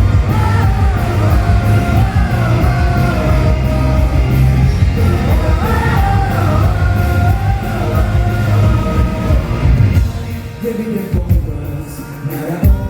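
Live rock band music with a singing voice over heavy bass and drums; the music drops back to a quieter, sparser passage about ten seconds in.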